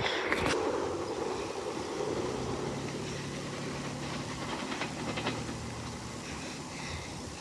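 Electric commuter train pulling out and moving away, its rumble slowly fading, with a steady low hum underneath.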